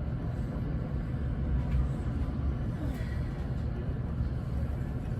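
Steady low rumble of a Northern Class 156 diesel multiple unit running.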